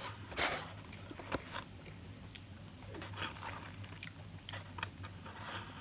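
A person chewing fried chicken close to the microphone. There are scattered wet mouth clicks and small crunches, the loudest about half a second in.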